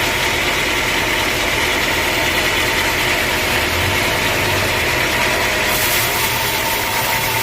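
Sawmill machinery running steadily: a loud, continuous mechanical noise, with a brighter hiss coming in about six seconds in.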